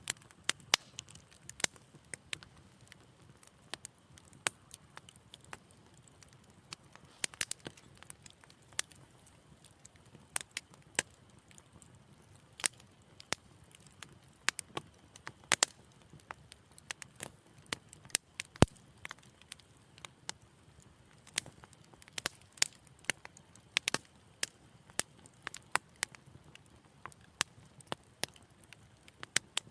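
Wood fire crackling: irregular sharp pops and snaps, some louder than others, over a faint low hiss.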